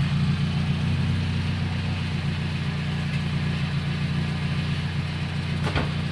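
Timor sedan's four-cylinder engine idling steadily. Near the end a car door shuts once.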